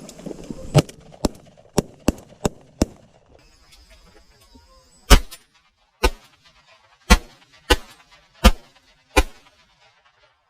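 Series of shotgun shots: a quick run of about six lighter reports, then six loud blasts coming about a second apart or less, each one sharp and short.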